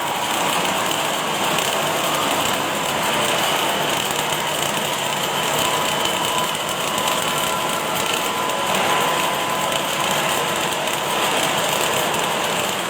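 Automatic welding machine at work: a steady crackling hiss of the welding arc, with faint steady machine tones beneath it.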